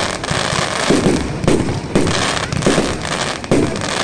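Fireworks display: several sharp bangs, roughly a second apart, over continuous crackling.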